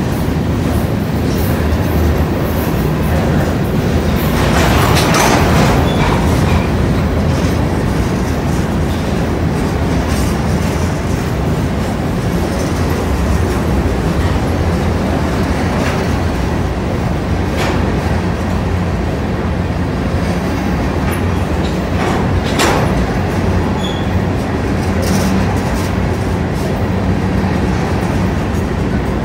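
Providence and Worcester freight train's hopper cars rolling past close by: a steady rumble with wheels clattering over the rail joints. It swells about five seconds in, and a few sharp clanks come later.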